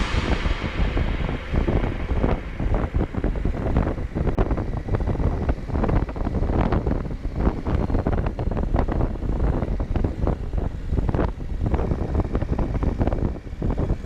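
Wind buffeting the microphone of a moving motorcycle, gusting unevenly, with road and engine noise underneath.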